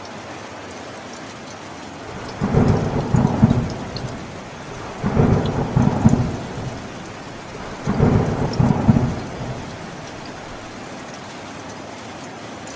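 Steady rain with three rolls of thunder, spaced about two and a half seconds apart, each lasting about a second and a half.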